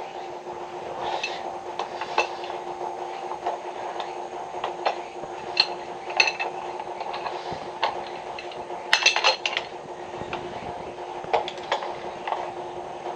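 Scattered light clinks and taps of tools and parts during water-pipe repair work, with a quick cluster of clinks about nine seconds in, over a steady mechanical hum.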